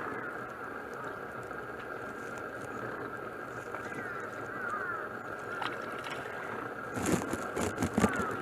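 Outdoor ambience with a steady high-pitched hum and a few short falling chirps. About seven seconds in comes a brief burst of splashing, typical of a kingfisher plunging into the water to bathe.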